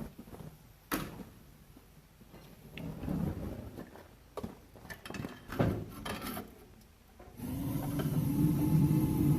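Scattered clicks and knocks from a cheap lighter being worked. About seven seconds in, a steady low rumble with a hum starts up as the foundry furnace lights and runs with its blower.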